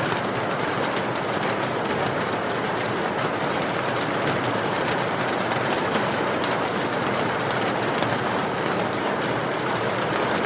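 Steady, heavy rain falling without a break, with faint scattered crackles from a wood fire burning in a fireplace.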